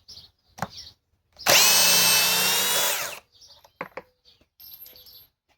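Cordless hammer drill in speed 2 running under load on a screw for about a second and a half, its motor pitch sagging slightly before it stops suddenly.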